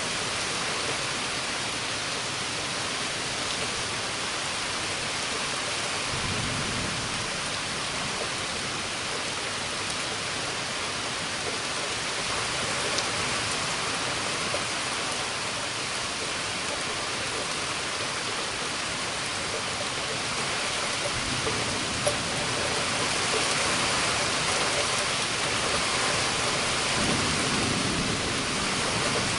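Heavy thunderstorm rain falling steadily, growing a little louder about two thirds of the way through, with low rumbles of thunder twice.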